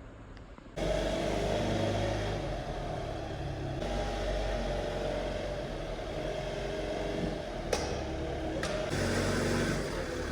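Truck engine running steadily with road noise while driving, starting suddenly about a second in.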